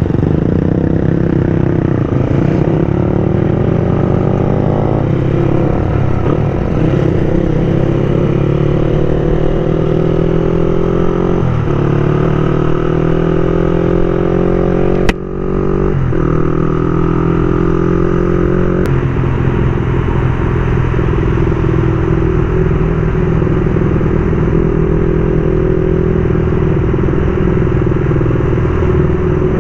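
Motorcycle engine running under way, its pitch rising slowly as it accelerates. About halfway through it drops sharply for a gear change, rises again, shifts once more a few seconds later, then holds a steady cruise.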